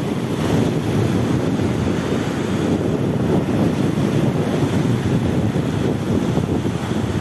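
Steady wind buffeting the microphone, a low rumbling rush, with the sea's surf beneath it.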